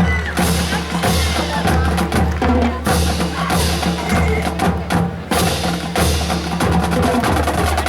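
Marching band playing, with the drumline's rapid, rhythmic strikes to the fore over a low brass bass line.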